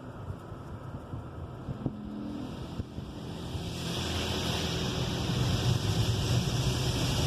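Washworld Razor car wash's high-pressure sprayer starting up and blasting water onto the car: a hissing rush of spray that swells in from about three seconds in over a low machine rumble.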